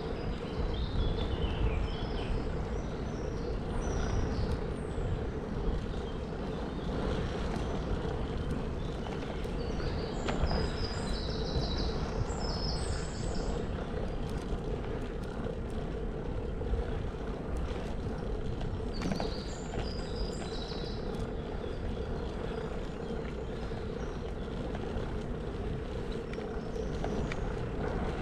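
Woodland ambience: a steady low rumble of distant traffic, with birds chirping in short bursts near the start, around ten seconds in and again around twenty seconds in.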